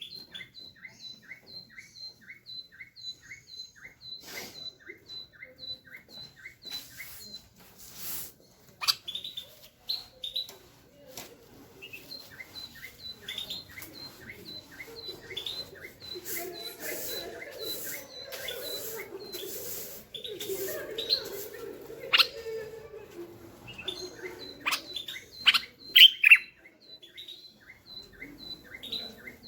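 White-eared bulbul song: long runs of short repeated notes, about three a second, broken by sharp clicks and harsher, scratchy calls.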